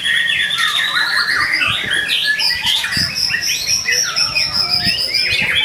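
White-rumped shama (murai batu) singing in full, fast varied phrases of whistles and rattling trills, with a long high note that rises at the start and another held high note from about three seconds in.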